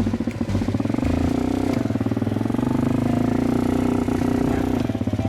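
Motorcycle engine running steadily with a fast, even beat as the bike sets off.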